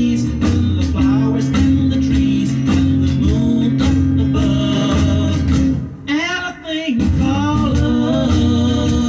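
Mid-1960s pop record: a male lead vocal over guitar, bass and drums with a steady beat. About six seconds in the bass and drums drop out for a moment, leaving the voice, then the band comes back in.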